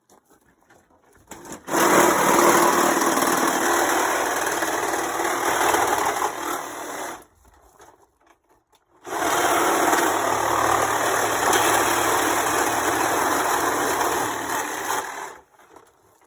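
Cordless power saw with a metal-cutting blade cutting through a dishwasher's body, in two runs of about five and six seconds with a short pause between.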